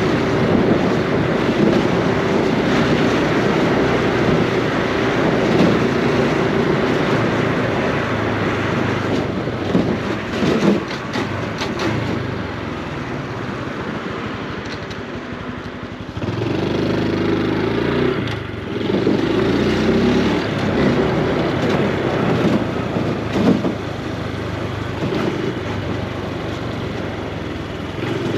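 Honda Super Cub C125's single-cylinder four-stroke engine and exhaust running under way. It eases off to a quieter stretch about halfway through, then picks up again with a few swells in engine speed.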